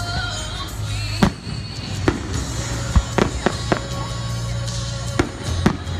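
Aerial firework shells bursting: about eight sharp bangs, several in quick succession around the middle. Music with a steady bass plays underneath.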